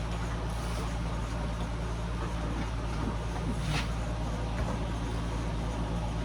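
Steady low hum under a faint even hiss, with one short sharp click a little under four seconds in.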